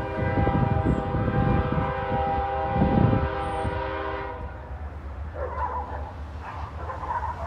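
Diesel freight locomotive's air horn sounding a held chord that cuts off about four seconds in, over the low rumble and thumping of the train rolling on the rails.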